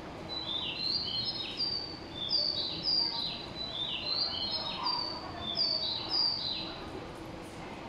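Bird chirping: rapid high chirps, each sliding down in pitch, in two similar bursts of about three seconds each, over a faint steady hum.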